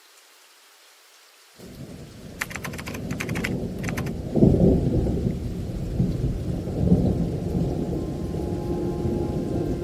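Thunderstorm: after a faint hiss, thunder breaks about a second and a half in with a sharp crackle and rolls on as a long low rumble over steady heavy rain, swelling loudest a little past the middle.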